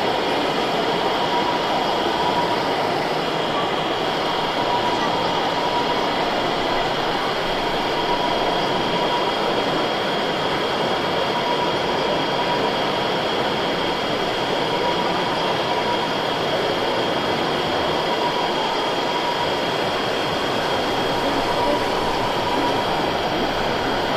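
Steady din of a busy exhibition hall, with two thin steady tones running through it.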